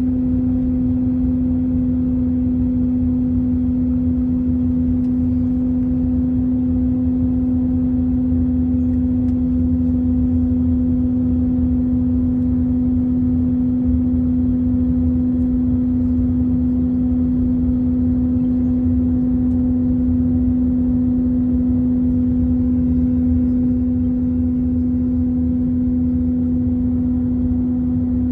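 Steady cabin drone inside an Airbus A321 in flight: a constant low rumble with a strong, unchanging hum.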